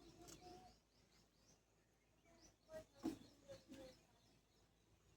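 Faint birds chirping in quick runs of short, high notes, with a few soft knocks about three seconds in.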